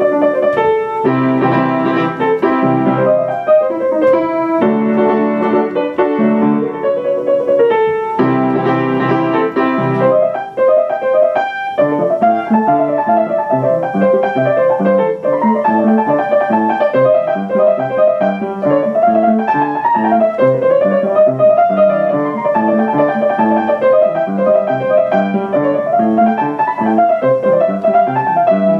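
Solo piano music: block chords at first, then a flowing melody over a steady accompaniment.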